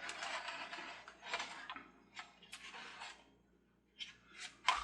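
Plastic carousel parts being handled: irregular rustling and clattering, a short pause, then a few sharp clicks near the end.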